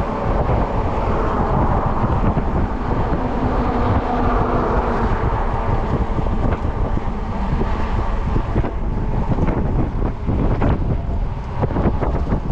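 Wind rushing over the microphone of a rider on a fat-tire e-bike at about 15 miles an hour, a steady roar, with scattered small knocks over the last few seconds.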